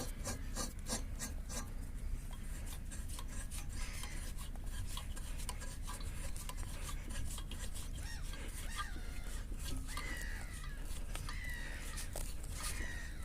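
Propeller nut being threaded and tightened onto the boat's prop shaft: metal rubbing and scraping with quick small clicks, thickest in the first couple of seconds.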